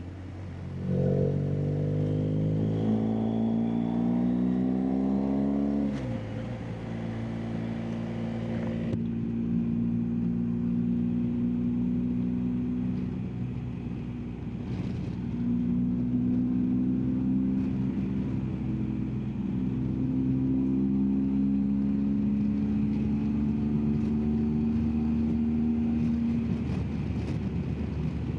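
BMW R1250GSA's 1254 cc boxer twin pulling the bike along, climbing in pitch for several seconds, then dropping suddenly about six seconds in and running on with gentle rises and falls in speed.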